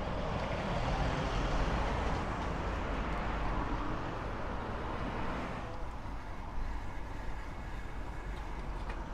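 Road traffic noise: a vehicle passes, its engine and tyre noise swelling and then falling away about halfway through.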